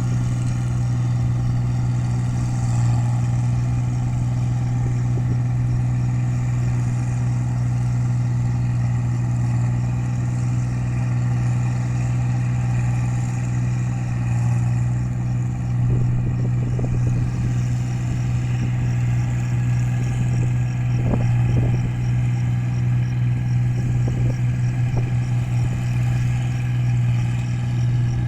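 Rice combine harvester running steadily while cutting paddy: a constant engine drone with a strong low hum. A few brief knocks and rattles come through in the second half.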